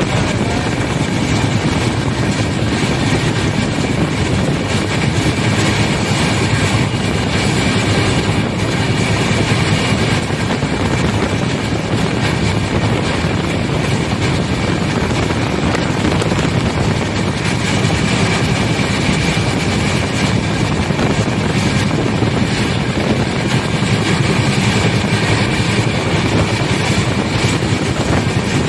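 Passenger train running at speed, heard from on board: a steady loud rush of wheels on the rails mixed with wind noise.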